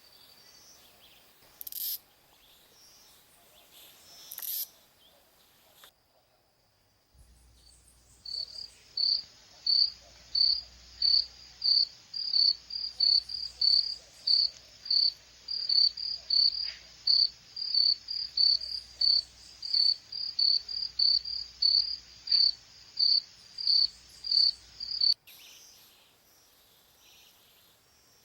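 A long run of sharp, high-pitched chirps, about two a second, beginning about eight seconds in and cutting off abruptly near the end: the repeated chirping call of a Brazilian squirrel (serelepe).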